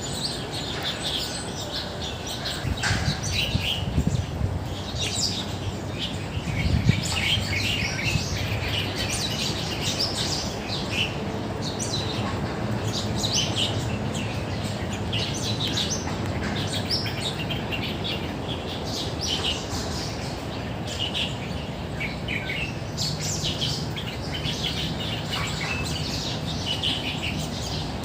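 Many small birds chirping and calling in short, quick, overlapping notes, a busy morning chorus in tall park trees, over a steady low rumble, with a couple of low bumps about four and seven seconds in.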